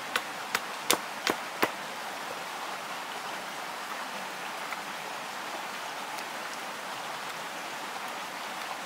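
Knife chopping on a board in sharp strokes, about three a second, stopping after about a second and a half, over a steady even hiss.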